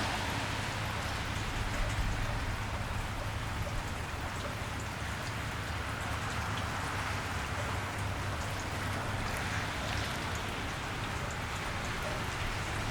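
Steady rain falling on a wet street, a continuous hiss with scattered drops and a low steady rumble underneath.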